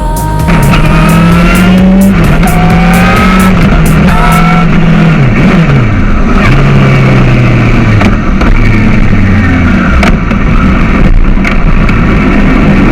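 Yamaha YZF-R6's inline-four engine accelerating hard, its pitch climbing and dropping sharply at each upshift, then falling away as the bike slows, with heavy wind rush on the helmet-mounted camera.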